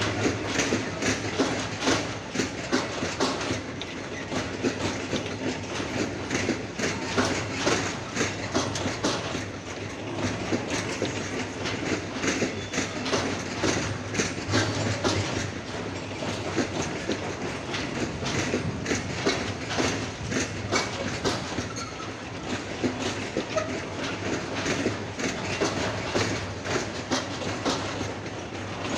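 Long freight train of covered hopper wagons rolling past, steel wheels clicking over rail joints again and again over a steady rumble.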